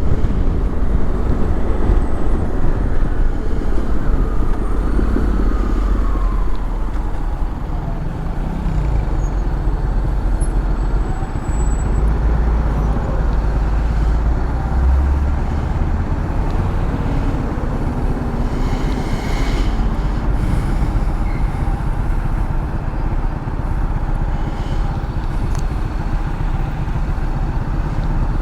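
Honda X-ADV 750 motorcycle-scooter riding on the road: engine running steadily under a heavy low wind rumble on the rider's microphone.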